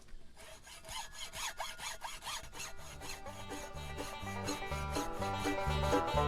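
Rhythmic rasping strokes like a saw cutting wood. Banjo-led bluegrass music fades in about halfway and grows louder.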